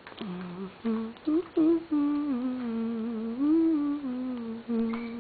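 A voice humming a slow, wavering tune: a few short notes at first, then a long held hum that rises and falls, and one more short note near the end.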